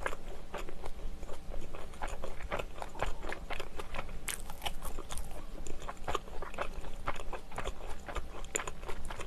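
A person chewing a mouthful of soft sausage-and-onion bread close to the microphone, with many small mouth clicks throughout.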